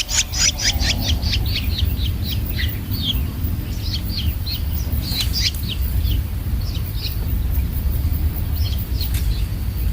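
Young long-tailed shrikes chirping: a fast run of short high calls at about five a second at the start, then scattered single chirps. A steady low rumble runs underneath.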